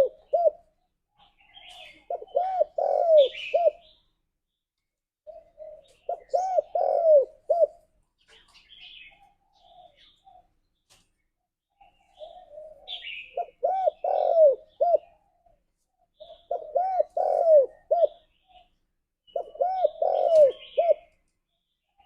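Spotted dove calling. Five cooing phrases, each a run of several short, arching coos, come one every three to four seconds. Faint high chirps fall between them.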